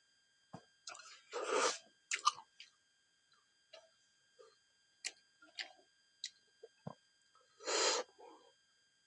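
Close-up chewing of silkworm pupae: scattered wet mouth clicks and smacks, with two longer crunchy bursts about a second and a half in and near the end.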